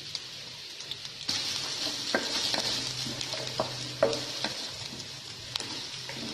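Chopped vegetables sizzling in hot oil in a wide flat pan, the sizzle growing louder about a second in, with several sharp knocks against the pan as they are stirred.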